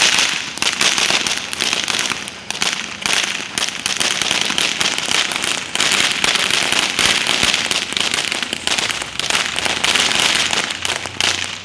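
A ground firework spraying with a steady hiss and dense, rapid crackling, which dies away near the end.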